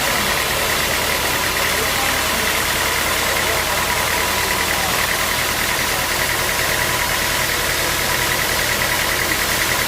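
Sawmill machinery running steadily: an even engine noise with a constant fluttering whine above it, unchanging throughout.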